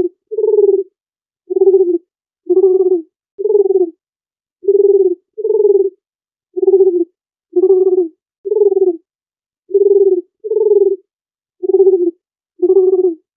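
Dove cooing: a series of short, low coos, about one a second in groups of two or three, with clean silence between them.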